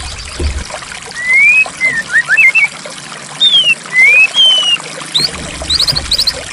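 White-rumped shama (murai batu) singing clear whistled phrases of rising and falling notes, with a quick trill of short high notes near the end, over a steady trickle of running water.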